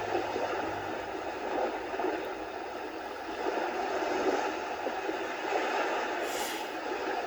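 Magicteam SN-A3 sound machine playing its "little sea wave" track: a steady wash of surf noise that swells and eases gently.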